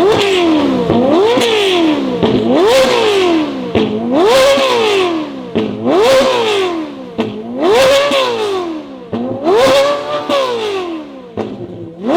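Tuned car engine revved repeatedly while standing still: sharp blips of the throttle, each rising quickly in pitch and falling back, about every one and a half seconds.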